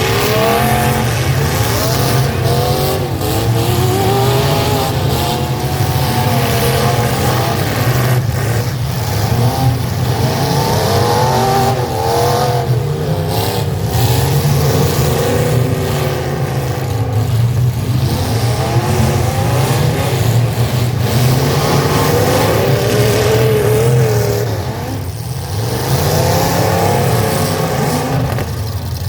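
Several full-size pickup truck engines revving hard during a demolition derby, their pitch climbing and falling again and again over a deep, steady rumble. The noise eases off briefly a little before the end.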